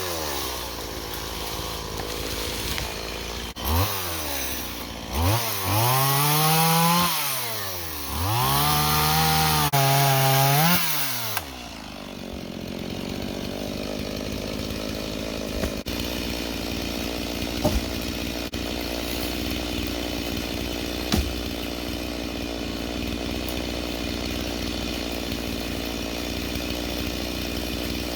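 Two-stroke chainsaw revving up and down hard several times, then dropping about eleven seconds in to a steady idle for the rest of the time.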